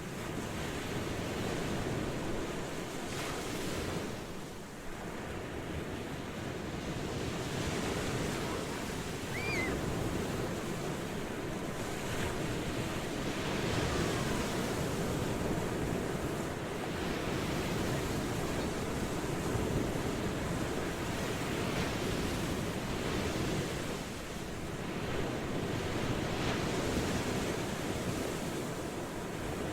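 Ocean waves washing on a shore, a steady surf that swells and eases every few seconds.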